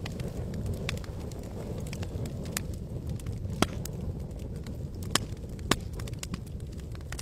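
Wood campfire crackling, with scattered sharp pops, the loudest three in the second half, over a steady low rush.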